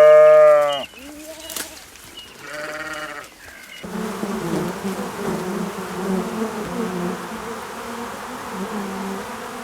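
A sheep bleats three times, the first loud and long, the others shorter and quieter. About four seconds in the sound cuts abruptly to a steady buzzing of insects.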